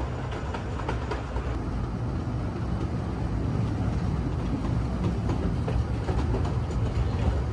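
Kurobe Gorge Railway narrow-gauge sightseeing train running along the track, a steady low rumble of wheels on rails with scattered clicks, growing slightly louder.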